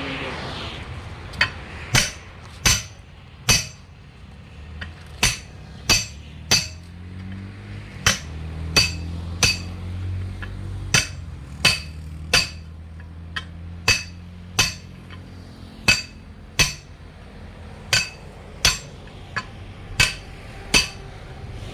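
Repeated hammer blows on metal at an uneven pace, roughly one or two a second, each with a short metallic ring.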